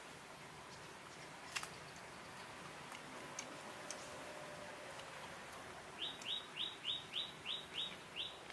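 A bird calling a quick series of short rising notes, about three a second, beginning about six seconds in, over a faint steady hiss. A few faint clicks come earlier.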